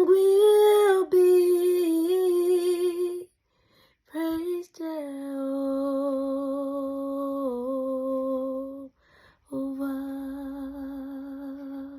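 A woman singing a worship song with no visible accompaniment, in three long-held phrases with vibrato and short pauses between them.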